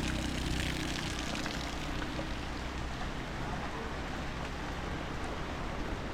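Light rain falling steadily, with a motor vehicle's engine running nearby and fading out about halfway through.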